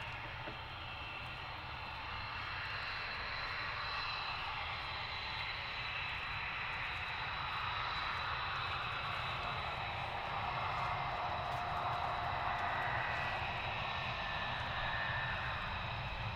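Aircraft engines running with a steady rush and a high whine, growing slowly louder to a peak a few seconds before the end. Some of the whining tones sag a little lower in pitch as the aircraft passes.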